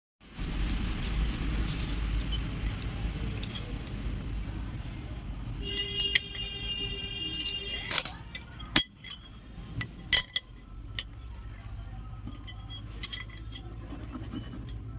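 Pieces of iron and steel being handled in a blacksmith's workshop: irregular clinks and sharp metal knocks, one piece ringing for about two seconds, over a steady low rumble.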